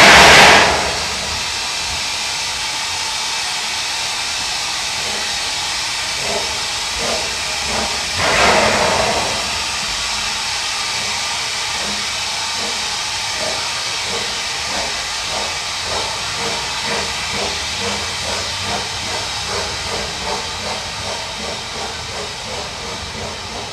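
Narrow-gauge steam locomotive hissing steadily, with a loud blast of steam right at the start and a shorter one about eight seconds in. Its exhaust beats then begin faintly and quicken as it gets under way, fading toward the end.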